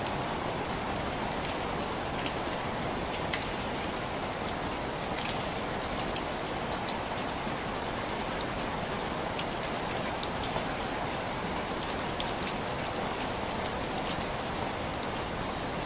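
Steady rain pattering on window glass: an even, unbroken hiss with scattered sharp ticks of single drops.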